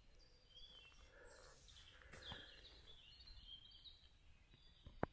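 Near silence with faint, short, high bird chirps scattered throughout, and one sharp click near the end.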